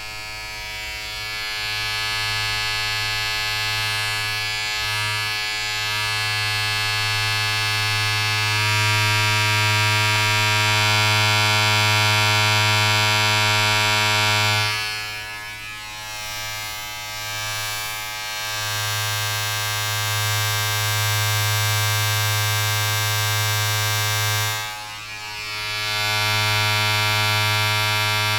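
A steady electric motor buzz with a hiss over it, continuous white-noise style; it dips in level twice, about halfway through and again near the end.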